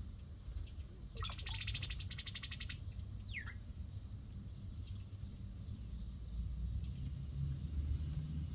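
A bird at a backyard feeder gives a rapid chattering run of notes lasting about a second and a half. Shortly after, a single short call falls in pitch. A steady low rumble sits underneath.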